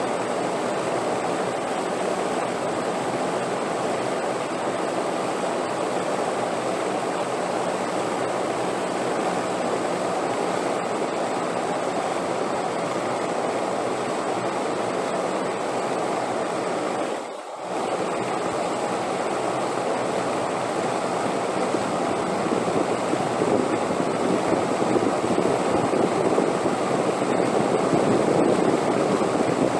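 Steady rushing wind, dipping briefly about halfway through and growing somewhat louder in the last third.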